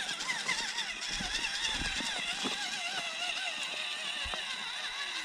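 Electric drive motor and gears of a radio-controlled scale crawler truck whining, the pitch wavering up and down with the throttle as it creeps through the course. There are a few dull low knocks.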